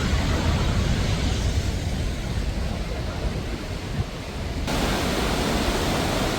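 Iguaçu Falls' water rushing, a loud steady wash of noise that changes abruptly about four and a half seconds in.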